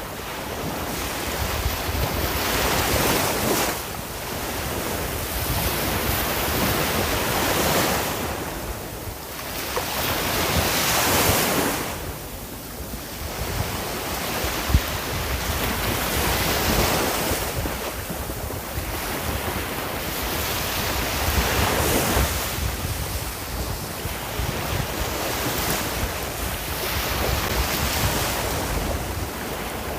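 Sea waves breaking and washing on a shore, the surf swelling and falling back every few seconds.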